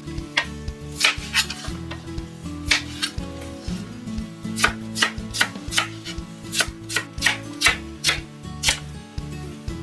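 Kitchen knife chopping cucumber on a cutting board: a run of sharp, uneven strokes over soft background music.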